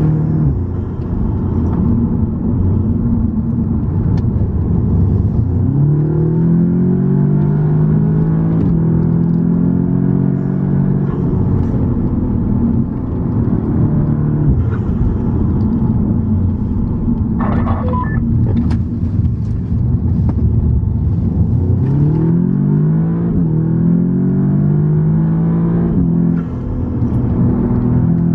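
Car engine heard from inside the cabin while driving, with road rumble underneath; the engine note rises as the car accelerates about five seconds in and again about twenty-one seconds in, then holds steady.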